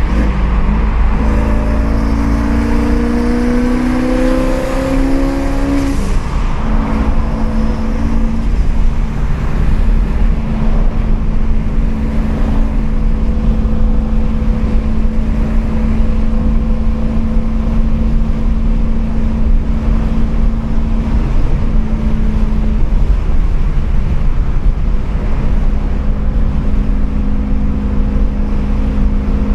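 Turbocharged 5.0 Coyote V8 of a Mustang heard from inside the cabin under a heavy exhaust rumble. It pulls with rising pitch for about five seconds, drops sharply about six seconds in, then runs at a steady cruise.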